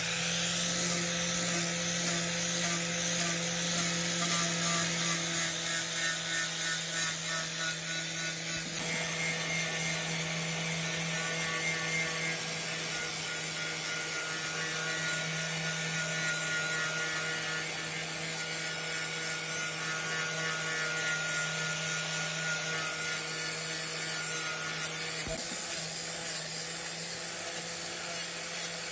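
Small electric power tool running steadily, its motor hum under a grinding, rubbing hiss as it works on a metal part; the grinding sound changes about nine seconds in.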